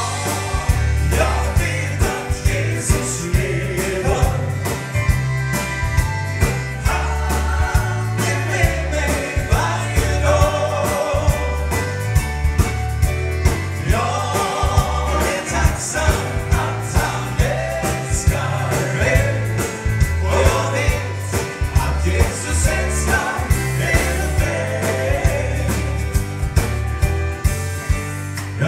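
Gospel song with several voices singing together over a band, with a bass line and a steady drum beat.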